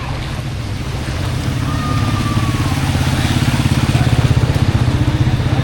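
A small motor vehicle's engine, likely a motorcycle, running close by with a rapid pulsing note. It grows louder over the first few seconds, as if approaching.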